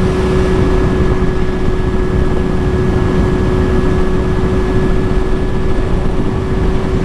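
Kawasaki Ninja ZX-6R motorcycle cruising at a steady speed: the engine holds constant revs with no revving or shifting, under heavy wind rumble on the helmet or bike-mounted microphone.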